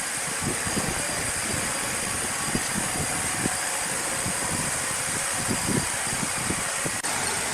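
Sawmill machinery running: a steady high hiss with irregular low knocks and thuds, and a brief drop in level near the end.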